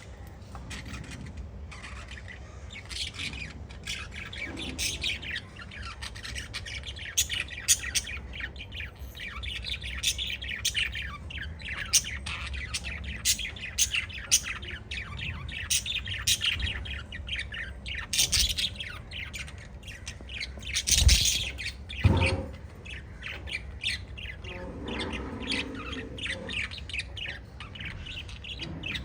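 A small flock of budgerigars chirping and squawking in a rapid, busy chatter. About three quarters of the way through there are two sharp knocks, louder than the birds.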